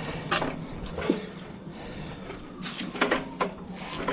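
Hand truck and ratchet strap being handled: a scatter of short knocks and rattles, several in quick succession about three seconds in.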